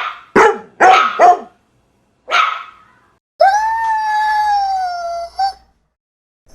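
A dog barking five times, four in quick succession and one more a second later, then a dog howling one long note of about two seconds that sinks slightly in pitch.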